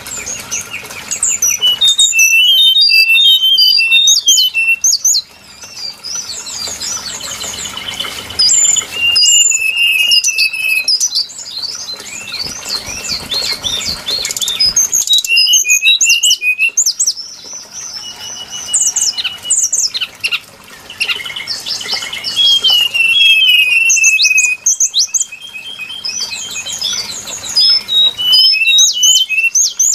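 Brown-chested jungle flycatcher song played as a lure call: phrases of quick, varied high whistled notes and short slurs, repeated again and again with short pauses between them.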